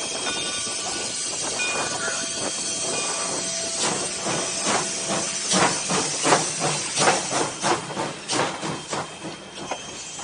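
Steam locomotive hissing steadily. From about four seconds in, its exhaust chuffs start as a rhythmic beat that speeds up as the train gets under way, then fades near the end.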